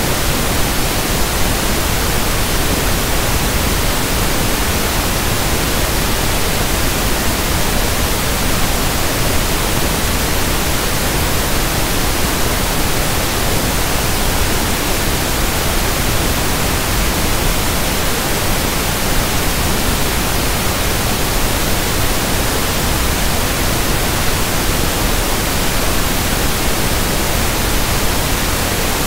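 Steady synthetic pink noise (1/f noise): an even, unchanging hiss across the whole range, fuller in the lows than white noise.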